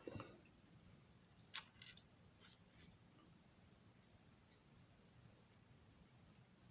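Faint, scattered small clicks of a screwdriver and tiny screws being handled, with a soft knock right at the start.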